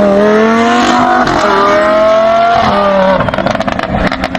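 Race car engine sound effect revving up through the gears, its pitch climbing and dropping back at each shift, then breaking into a fast crackling rattle about three seconds in.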